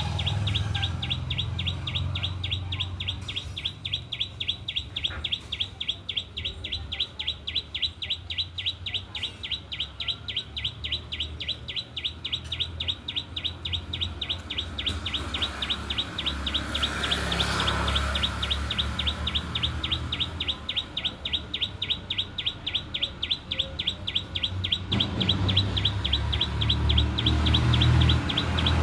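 A bird chirping in a fast, even series, about four chirps a second, over a low rumble.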